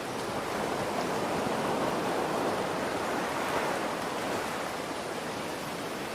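Rain and ocean waves: a steady rain hiss with a wave swelling in and washing back over a few seconds, strongest in the middle.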